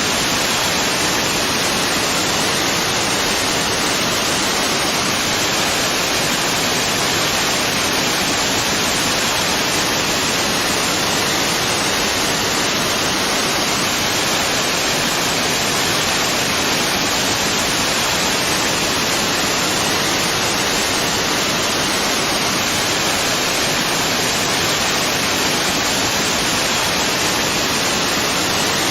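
Waterfall: a steady, unbroken rush of falling water, dense and hissy, with no change in level.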